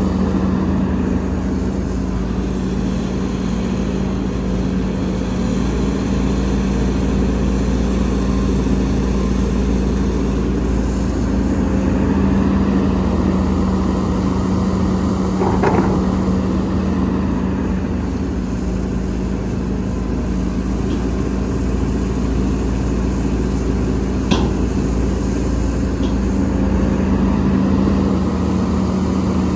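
Diesel engine of heavy earthmoving machinery running steadily at a constant speed. There is a sharp knock about 16 seconds in and another about 24 seconds in.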